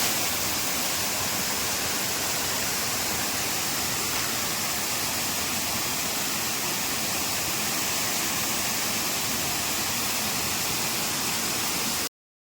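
Waterfall rushing: a steady, even hiss of falling water that cuts off suddenly near the end.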